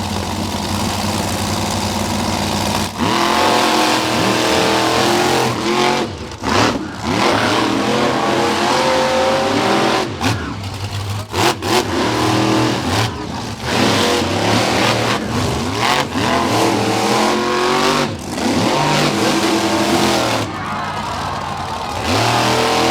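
Monster truck engines revving hard and changing pitch constantly, with the throttle cut off abruptly several times and picked up again.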